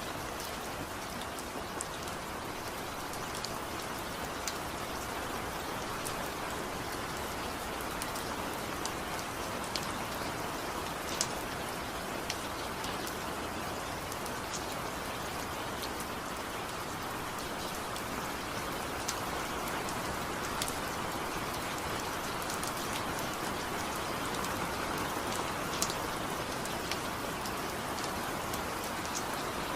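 Steady rain falling, a continuous hiss with individual drops pattering sharply on a surface, without thunder.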